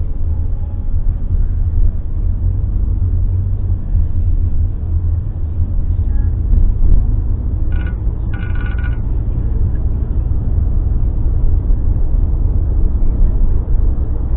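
Car driving, heard from inside the cabin: a steady low rumble of engine and road. About eight seconds in there is a brief high two-part tone.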